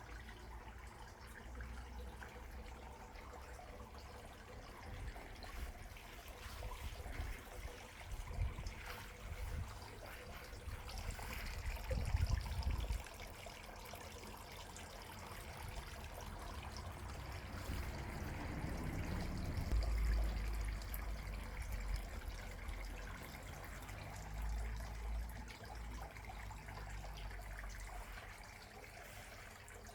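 Water trickling steadily, with irregular low rumbles now and then.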